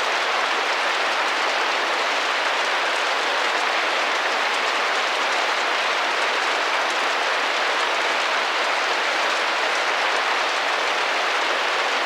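Steady rain on a window, a dense even patter of drops on the glass.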